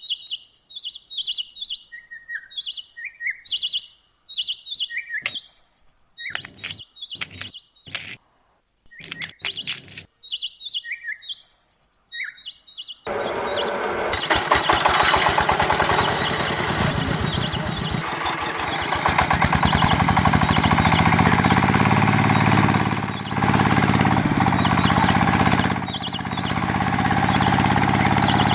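Birds chirping in short repeated high calls, broken by a few sharp clicks and brief gaps. About halfway through, a loud steady mechanical noise takes over, with a low hum that rises in pitch.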